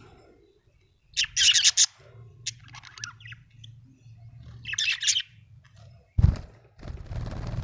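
Budgerigar chirping in quick bursts of high twittering calls. About six seconds in there is a sharp thump, the loudest sound, followed by a short rustling noise.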